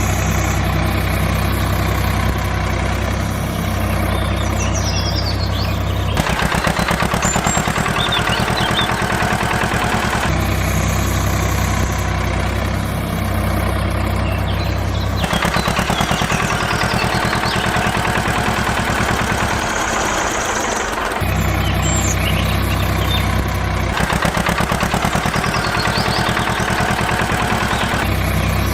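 Small engine running, switching every few seconds between a steady low hum and a fast, even chugging, with faint bird chirps over it.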